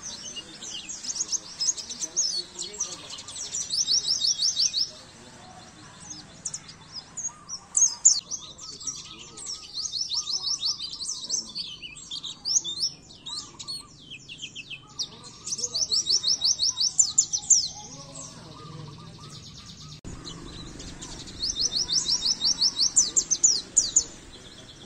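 White-eye (pleci) singing: rapid high twittering broken by several loud, fast trills, each a second or two long.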